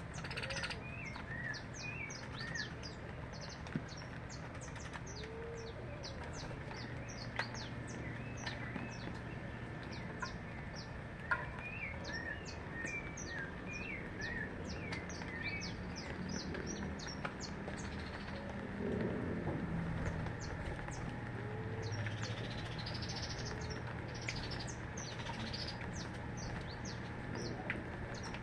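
Many small birds chirping and calling together: a dense run of quick, high chirps mixed with short whistled notes. A steady low hum runs underneath.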